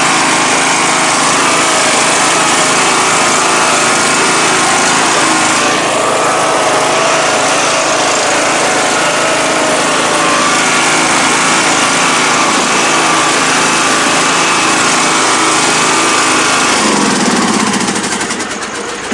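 Troy-Bilt Pony riding mower's Briggs & Stratton single-cylinder engine running steadily at speed, then shut off near the end and winding down.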